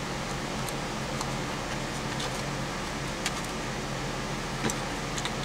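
Steady low hum of background machinery, like a fan, with a couple of faint clicks from small parts being handled, about three and a half and five seconds in.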